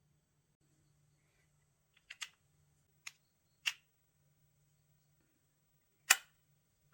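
Small plastic parts of a Galaxy Buds Live earbud clicking and tapping as they are handled: a quick double click about two seconds in, two single clicks, and a louder sharp click about six seconds in.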